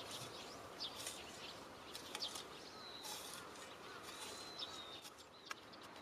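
Small birds chirping faintly: scattered short high chirps, and two long thin whistles a little past halfway. A single sharp click comes near the end.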